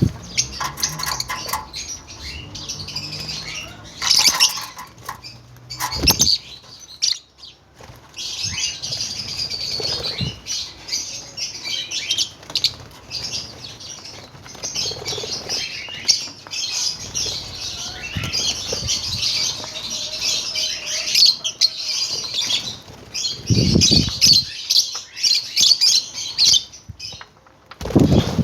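A group of caged lovebirds chattering with rapid, high, shrill chirps. A few louder thumps and flutters break in, around 4, 6 and 24 seconds in.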